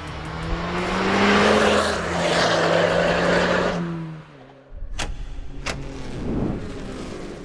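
Exhaust note of a 2013 Volkswagen Golf R's turbocharged 2.0-litre four-cylinder through a Remus sport exhaust, climbing in pitch as the car accelerates, holding, then dying away about four seconds in. A lower rumble follows, with two sharp clicks near the end.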